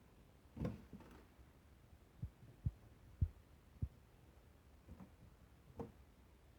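Faint, irregularly spaced low thumps and knocks, about eight in all, with a slightly sharper knock about half a second in.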